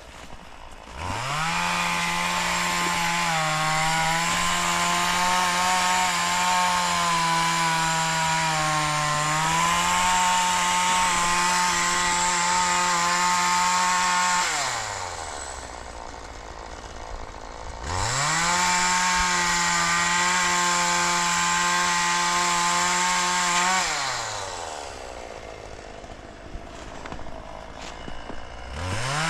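Chainsaw revved to full speed and held there for about thirteen seconds, then dropping back to idle. It is revved again for about six seconds, drops back, and revs up once more near the end.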